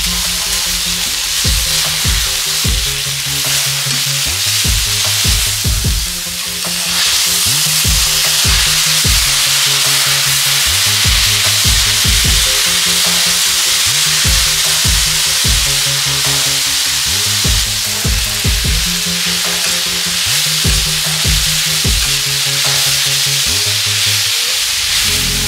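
Vegetables and chicken sizzling on a hot flat griddle plate as they are stir-fried, with a metal spatula scraping and knocking against the plate. The sizzle grows louder about seven seconds in. Background music underneath.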